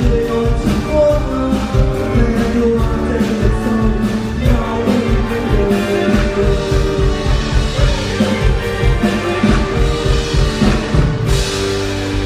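Live band playing a Thai pop-rock song with drums, while a male vocalist sings. The sound gets brighter and fuller near the end as the song builds toward its close.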